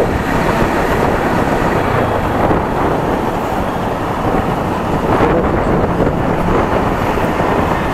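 Riding noise from a Yamaha R15 v3 motorcycle under way: wind rushing over the microphone and the engine's steady running.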